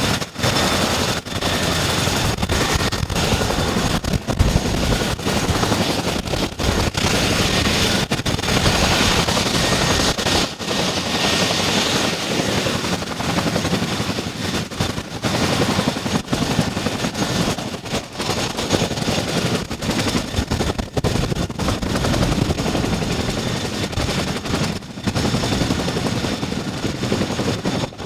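Boeing CH-47 Chinook helicopter with its engines running: a steady high turbine whine over the rapid, uneven chop of the rotors.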